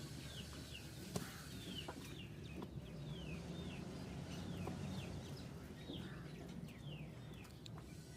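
Chickens clucking, with a run of short, high, falling peeps repeating a few times a second and a sharp click about a second in.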